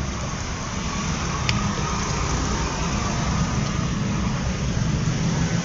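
Steady low engine rumble, like a motor idling, with a single sharp click about a second and a half in.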